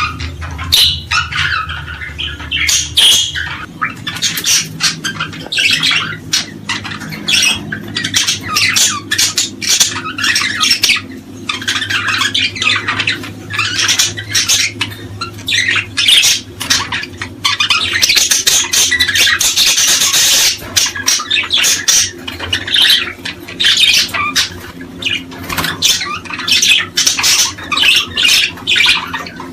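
A dense chorus of small songbirds chirping and calling over one another without pause.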